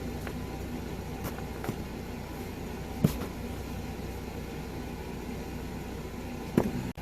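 Jeep Gladiator's engine idling steadily, with two sharp knocks, one about three seconds in and one near the end.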